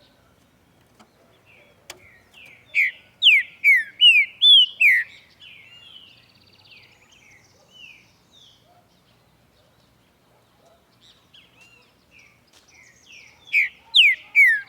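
A green-winged saltator (trinca-ferro) sings a loud phrase of rich, clear whistled notes, each sliding down in pitch, followed by softer notes. After a lull the same phrase starts again near the end. A single sharp click comes shortly before the first phrase.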